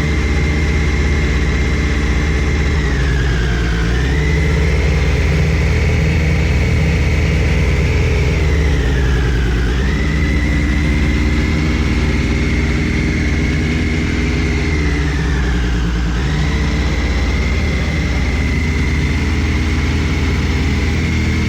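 A steady running engine or engine-driven machine with a constant low hum and a high whine. The whine sags in pitch and recovers three times, a few seconds apart.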